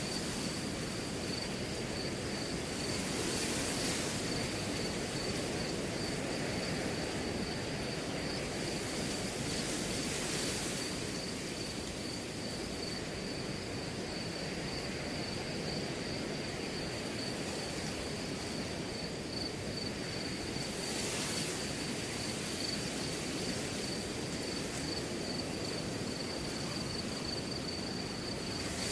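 Wind blowing through a grass field, a steady rushing with a few gusts that swell the rustle of the grass. A cricket trills steadily and high over it.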